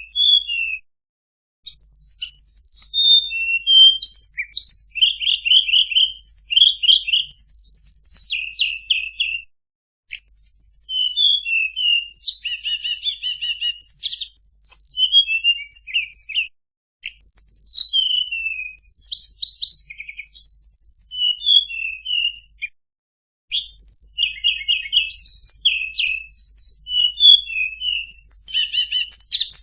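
Tledekan songbird singing a fast, varied song of sharp chirps, quick trills and short high whistles, in long phrases broken by a few brief pauses.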